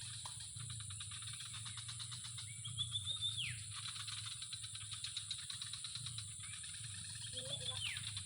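Two whistled calls, each a held high note that drops sharply at the end, about three seconds in and again near the end. They sound over a steady high insect drone with rapid fine ticking.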